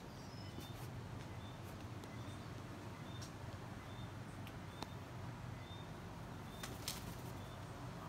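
A bird repeating a single short, high note at a steady pace, roughly once every three-quarters of a second, over steady background noise. A few sharp clicks come through, the loudest about seven seconds in.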